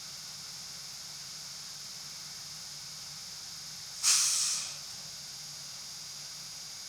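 A sudden, short hiss of compressed air from the bus's pneumatic system about four seconds in, fading out in under a second. It is heard over the bus interior's steady low hum and faint high hiss.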